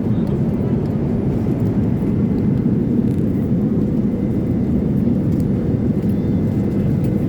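Steady low cabin rumble inside a Boeing 787 airliner in flight: engine and airflow noise, even throughout.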